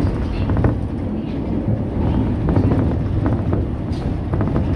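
Cabin running noise of an Osaka Metro New Tram car, a rubber-tyred automated guideway train, moving along the line: a steady low rumble with a few faint clicks.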